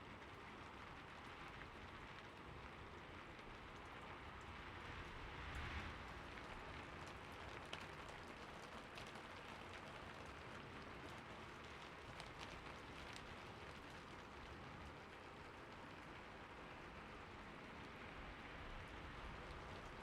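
Faint, steady rain falling, with a few scattered drops tapping.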